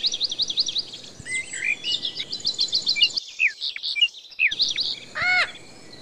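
Birds chirping in quick runs of high, sweeping whistles and trills, with a louder, harsher call about five seconds in.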